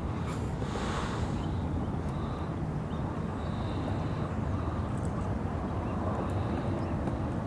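Steady outdoor rumble of low background noise, with no distinct events standing out.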